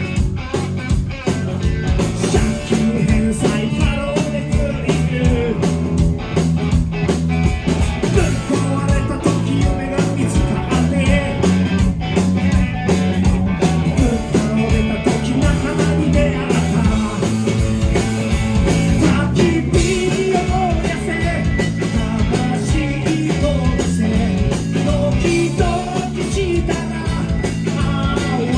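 Rock and roll band playing live, with a driving drum beat under bass and guitar.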